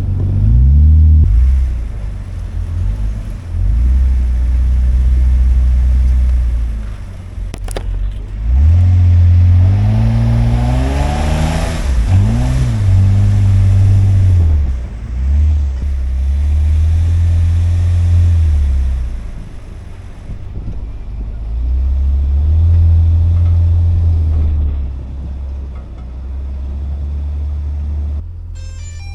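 4x4 truck engine revving up and falling back again and again while driving a snow-covered trail, with a sharp climb in revs about ten seconds in.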